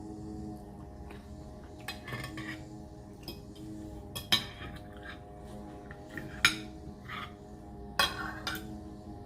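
Eating utensils clinking and scraping against a plate while eating. Several sharp clinks, the loudest about four, six and a half and eight seconds in.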